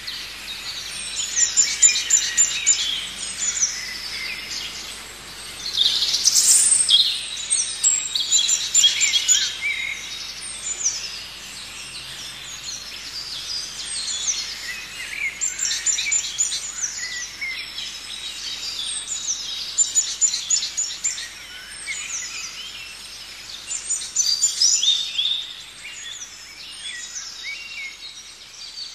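Several songbirds singing at once: overlapping chirps, quick trills and runs of rapidly repeated high notes, coming in waves throughout.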